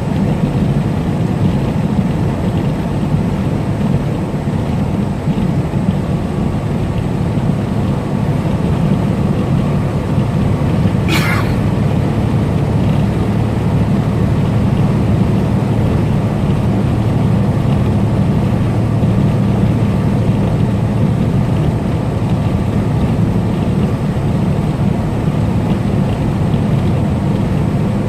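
Semi-truck cruising on the highway: a steady engine drone with road noise, and one brief high chirp falling in pitch about a third of the way through.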